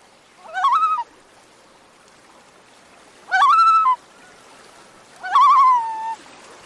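A bird calling three times, about two seconds apart. Each call rises with a quaver, then holds a steady note and drops slightly at the end.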